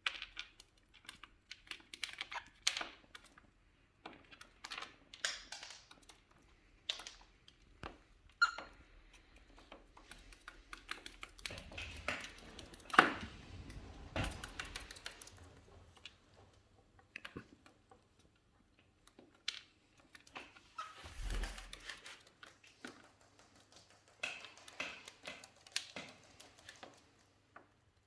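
Cockatiels pecking at an almond: irregular sharp clicks and taps of beaks on the nut and the surface under it. There is a short pitched chirp about a third of the way in and a louder knock near the middle.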